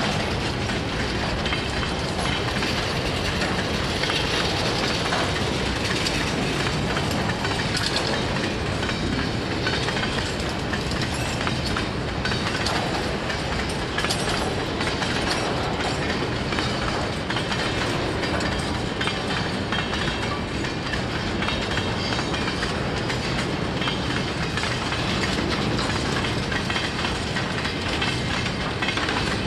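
Freight train cars rolling past steadily, their wheels clicking over the rail joints.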